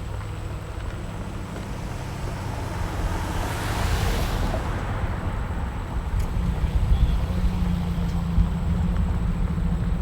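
Outdoor street ambience with wind rumbling on the microphone, and a road vehicle's hiss swelling and fading as it passes about four seconds in.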